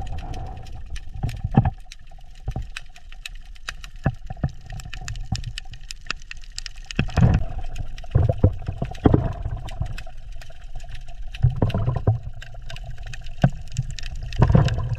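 Water gurgling and sloshing, with many sharp clicks and crackles throughout and several louder splashing bursts.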